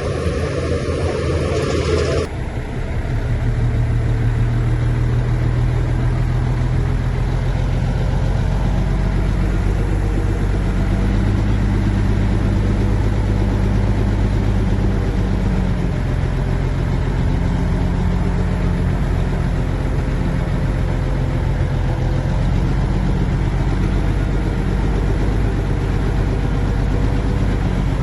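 Heavy diesel engine of earth-moving machinery running steadily under load, its pitch rising and falling a little. About two seconds in, a noisier rushing sound cuts off abruptly and the engine alone carries on.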